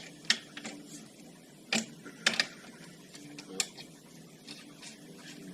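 A handful of sharp metallic clicks and clinks, irregularly spaced, from hand tools working fasteners on an ATV's front hub, with faint rattling between them.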